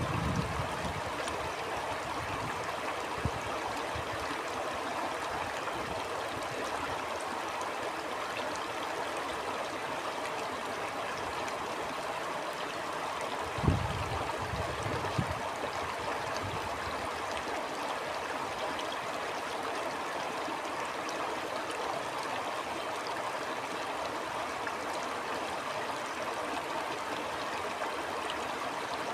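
Stream water rushing and gurgling steadily. A few brief low thumps break through, the loudest about 14 seconds in.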